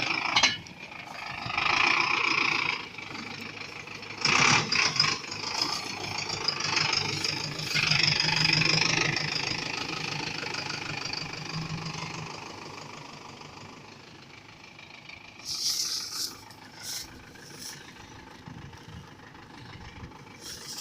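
Tractor engine running, with metallic rattling and several loud knocks.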